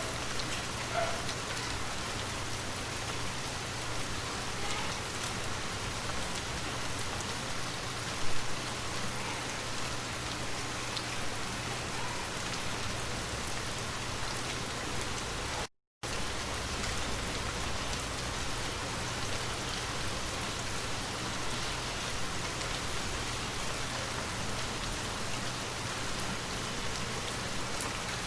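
Steady rain falling on surfaces: an even hiss with scattered drop hits. There is one louder sharp hit about eight seconds in, and the sound cuts out completely for a split second a little past halfway.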